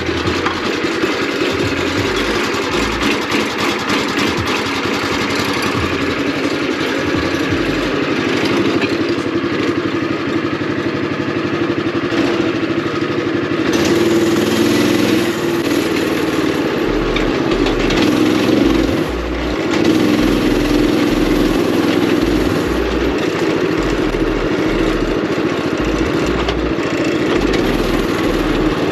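Predator 212 single-cylinder four-stroke engine running as the go-kart is driven, with a steady drone that dips briefly about two-thirds of the way through and then picks up again.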